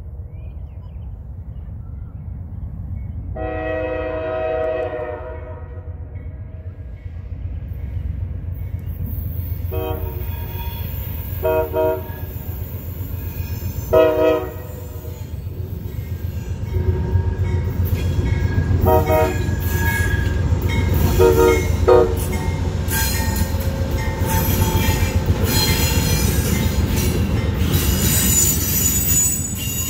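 A train's horn sounds a long chord, then a series of short blasts, as the train approaches. The rumble of the passing locomotive and the clatter and squeal of steel wheels on the rails build up through the second half.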